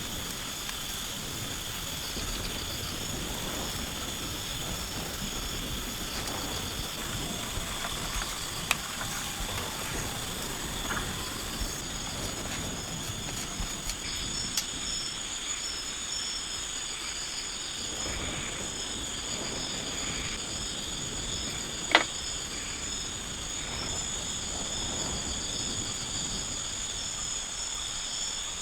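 Jungle insect chorus: several insects keep up steady, high, overlapping buzzing and trilling, one of them pulsing, over a low hiss of background noise. A few faint ticks sound along the way, and a single sharp crack about three-quarters through is the loudest sound.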